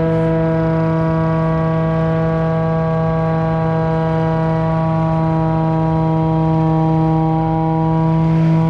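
Heavy truck diesel engine running at a steady high idle, a constant loud drone with a strong even hum.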